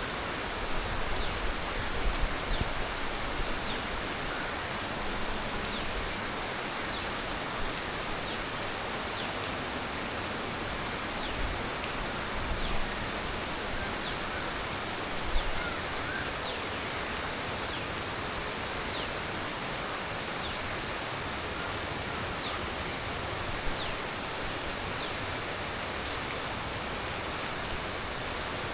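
Heavy tropical monsoon rain falling steadily, a dense even hiss. A short high falling chirp repeats every second or so, and a few brief low thumps stand out near the start and around the middle.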